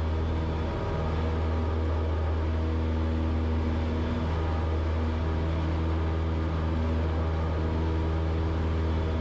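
Cessna 172's piston engine and propeller running at full takeoff power during the takeoff roll, a steady, even drone.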